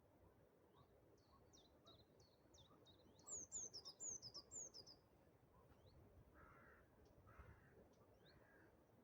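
Faint birdsong: a small bird gives a quick run of high, short chirps, loudest about three to five seconds in, with scattered single calls before and after.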